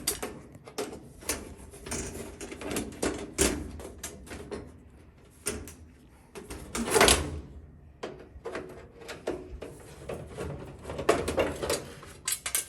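Irregular clicks, taps and knocks of hands and tools working on a GE dryer's control panel as it is unscrewed and worked loose, with one louder knock about seven seconds in.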